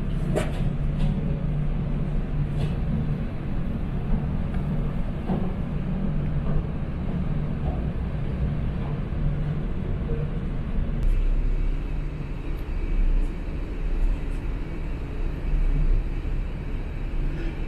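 Steady low running rumble of a vehicle, with a held low hum and a few faint clicks.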